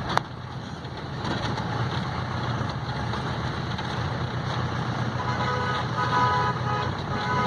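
Road traffic with a vehicle engine running steadily and a sharp click just at the start; from about five seconds in a vehicle horn honks in several short toots.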